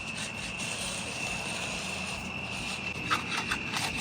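Steel concrete edging tool rubbing and scraping along the edge of a wet concrete slab in short strokes, a few sharper ones near the end, over a steady high-pitched tone.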